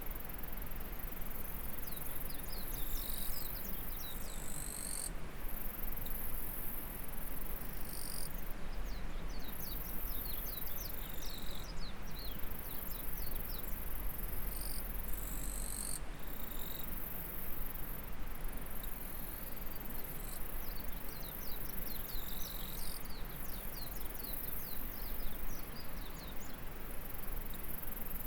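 Insects trilling in a high, continuous band that breaks off briefly now and then, over the steady rush of a flowing stream. Runs of short, high chirps come through repeatedly.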